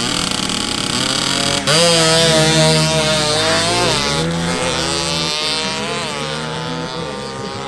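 Small motorcycle engines revving at the start line, more than one at once. Revs rise and fall, get suddenly louder about a second and a half in, dip around the middle, then climb again.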